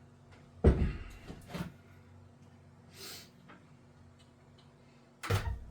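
A few sharp knocks and clunks of tools or parts being handled and set down, the loudest just under a second in and another near the end, with a short hiss around three seconds in.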